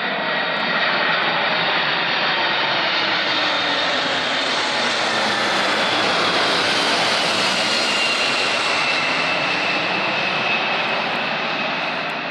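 Boeing 747-400 freighter's four jet engines passing on its landing approach: a steady jet noise with a high whine that slides slowly down in pitch. It swells to its loudest around the middle and fades toward the end.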